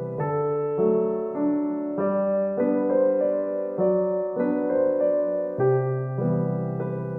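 Background piano music: a slow, gentle melody of sustained notes over a steady bass line.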